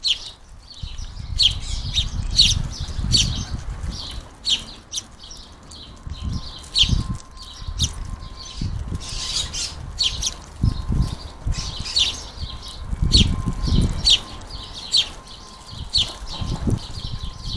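House sparrows chirping over and over in quick, sharp notes, typical of fledglings begging to be fed. Low fluttering thumps of wings at the feeder come every second or two.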